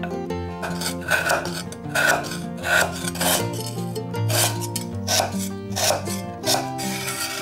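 A cleaver shaving thin flakes off a cake of palm sugar on a wooden chopping board: repeated rasping scrapes, about eight strokes, each ending on the board. Background music plays underneath.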